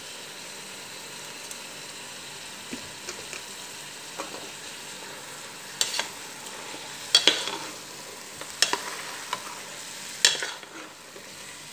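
Chicken pieces and blended tomato sizzling in a pot. From about halfway in, a metal spoon stirs them, scraping sharply against the pot about four times.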